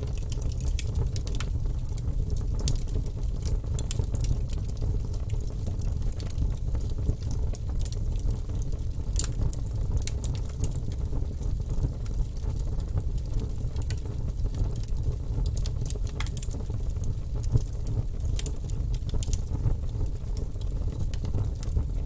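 Wood fire burning in a fireplace: a steady low rumble with irregular crackles and pops, a few sharper pops standing out.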